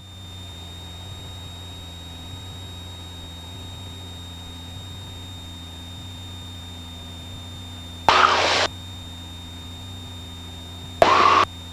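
Cessna 172 piston engine and propeller droning steadily in the cabin, a low even hum. Two brief bursts of hiss break in, about 8 seconds in and again near the end.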